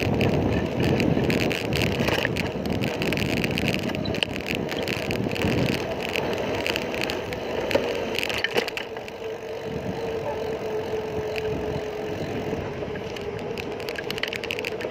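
Ride noise from a bicycle on a city road: wind on the microphone and a run of rattles and clicks from the bike, with a steady hum that comes in about halfway through.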